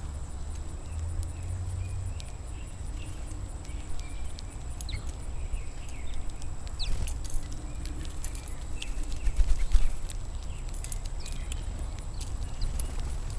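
Birds at a seed feeder: scattered sharp taps and clicks, with a few faint short chirps, over a low rumble.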